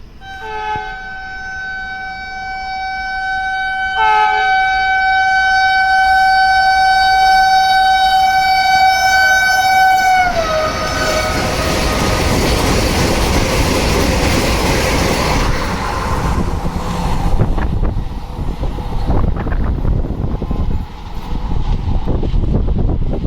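Express train sounding its horn: a short toot, then a long steady blast of about six seconds that drops in pitch as the train passes, followed by the loud rushing noise of the train going by at speed.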